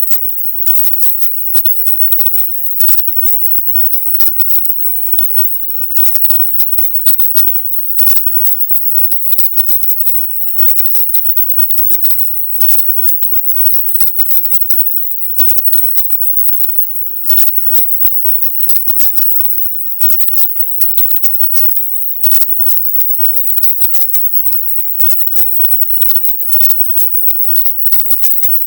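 Silent subliminal audio: a thin, very high-pitched hiss at the top of hearing that stutters and cuts in and out irregularly many times a second, with crackling clicks.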